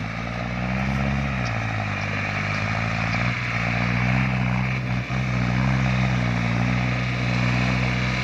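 Hino F18 ten-wheel truck's diesel engine labouring as it pulls away with a heavy load of sugarcane. The engine note rises about a second in, dips, then holds steady.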